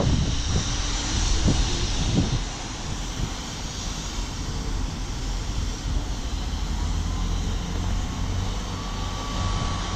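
Diesel train engine running with a steady low drone, under wind noise on the microphone. A few sharp knocks come in the first couple of seconds.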